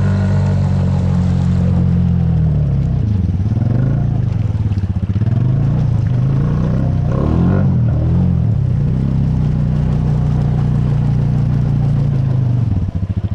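Honda Rancher ATV's single-cylinder engine running under throttle, its revs dipping and rising several times in the middle, then holding steady before dropping back toward idle near the end.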